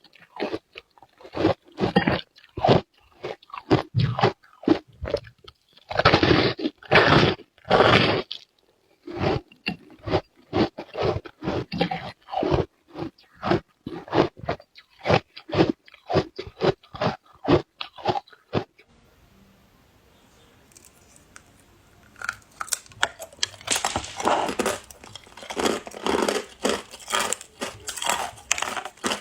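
Ice being bitten and chewed close to the microphone: a quick run of sharp crunches, a short pause about two-thirds of the way through, then denser, brighter crunching.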